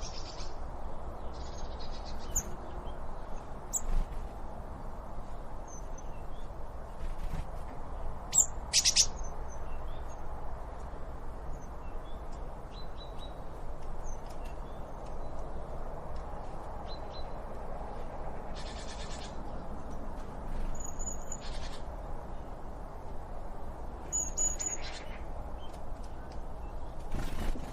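Wild birds calling: scattered short high chirps and whistled notes, a louder call about nine seconds in and a buzzy trill near the middle, over a steady low background hiss.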